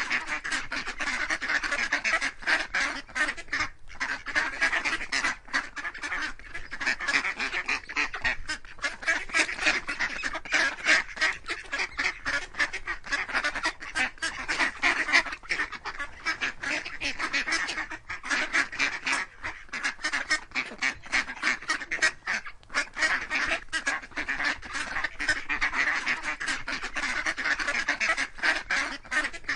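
A flock of ducks or geese calling continuously, many rapid overlapping calls with no break.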